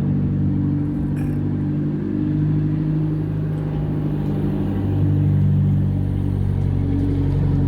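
An engine running steadily, a low hum with several steady tones that shift slightly in pitch.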